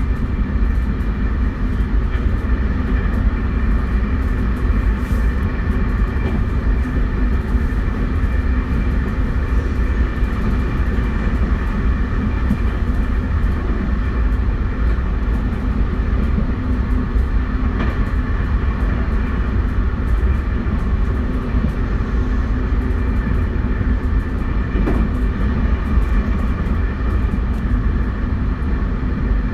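JR West 271 series electric train running at a steady speed: a steady whine of several tones from the traction motors and their Hitachi SiC inverter drive over a constant low rumble of wheels on rail.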